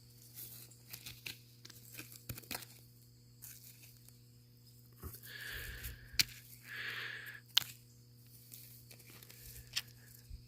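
Faint crunching and rustling of loose rock and ground litter being handled and stepped on, with scattered sharp clicks and two short louder scuffs about halfway through.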